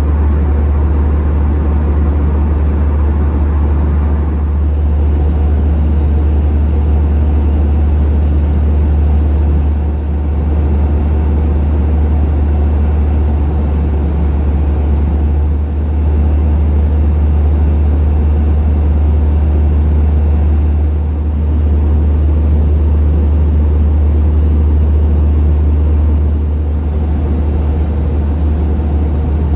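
Steady low rumble and rushing air noise inside an Airbus A320's cabin in flight, from its CFM56 engines and the airflow around the fuselage.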